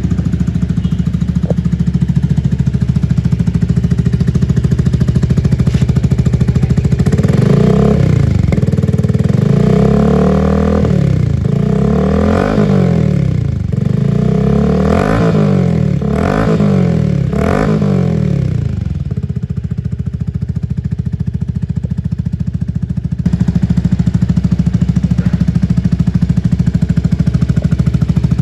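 Yamaha PG-1's single-cylinder four-stroke engine running through an aftermarket Diablo twin-outlet exhaust: it idles steadily, is revved up and dropped back about six times in quick succession, then settles back to idle.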